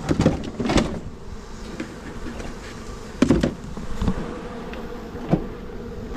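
A mass of honey bees buzzing steadily, broken by several sharp knocks and thumps, as captured bees are handled and tipped into a new hive box.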